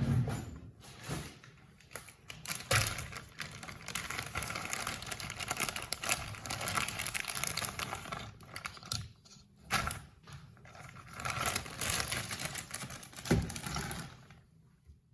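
Close-miked handling of a Kinder Surprise egg's wrapping and toy parts: dense crackling with many sharp clicks, with a short pause partway through, dying away near the end.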